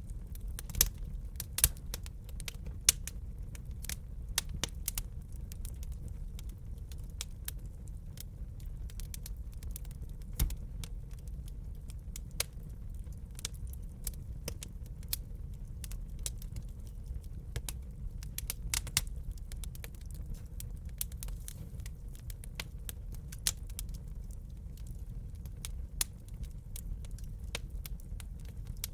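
Wood fire crackling in a fireplace: irregular sharp snaps and pops over a steady low rumble, with a few louder pops in the first few seconds.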